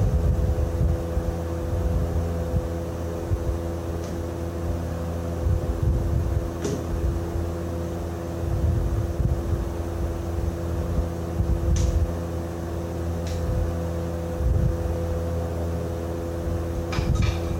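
An engine running steadily, with a few sharp clicks now and then.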